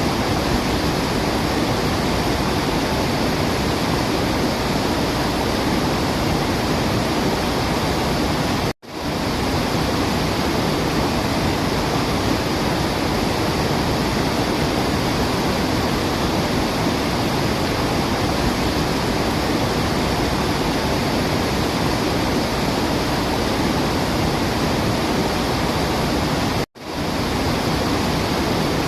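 Waterfall's steady rushing noise, with no birdsong heard. It cuts out for an instant twice, about nine seconds in and again near the end, then comes straight back.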